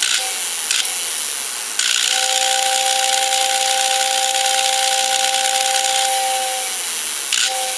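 Lionel 6466 whistle tender's whistle blowing a steady two-note chord over an airy hiss: a brief toot just after the start, a long blast from about two seconds in to about seven, and another starting near the end. The whistle is working again now that the bugs have been cleaned out of the horn.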